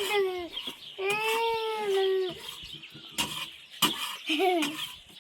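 Two long drawn-out animal calls, each rising slightly and then falling away, followed by a few sharp knocks and a short call near the end.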